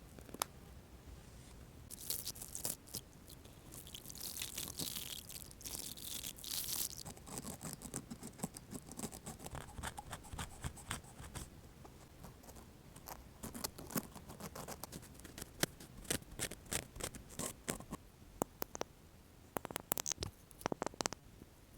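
Close-miked ASMR trigger sounds. For a few seconds there is crisp brushing and crinkling right at the microphone, then a run of light, irregular taps and clicks that grows busier near the end.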